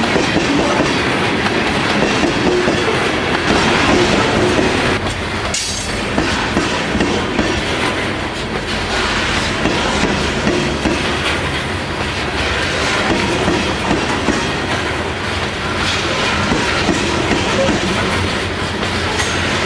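Loaded coal hopper cars of a freight train rolling past, a steady rumble of steel wheels clattering over the track.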